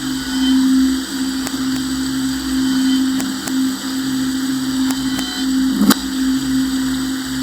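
Electronic sound-art texture: a steady low hum over a lower layer that pulses on and off every second or two, with a few sharp clicks, the loudest about six seconds in.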